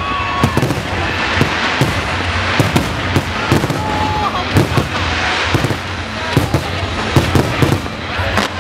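Fireworks display going off in a dense, continuous run of bangs and crackling bursts, several a second, with a few short whistles.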